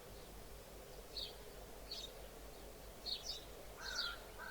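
Small birds chirping softly: short, high chirps about once a second, several of them, over a faint steady hum.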